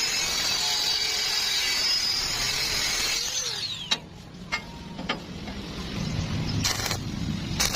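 A power tool running with a high whine, then spinning down about three and a half seconds in, followed by a few sharp clicks and a low rumble near the end.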